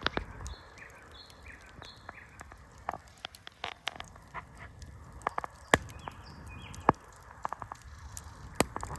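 Wood campfire crackling, with irregular sharp pops and snaps. A few short high chirps, like bird calls, come and go.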